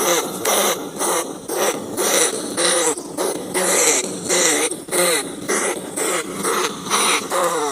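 Rats crying: short squealing calls repeated about twice a second, each bending up and down in pitch.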